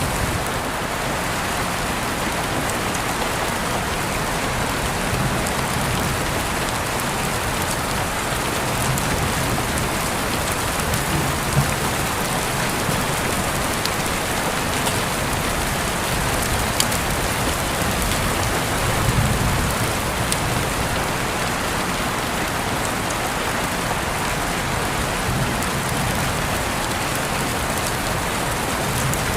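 Steady rain falling, an even hiss of drops, with a couple of sharper ticks partway through.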